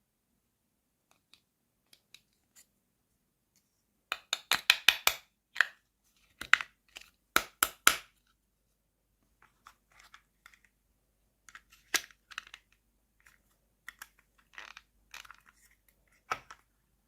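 Packaging being crinkled and torn open by hand, in quick runs of sharp crackles with scattered lighter clicks in between.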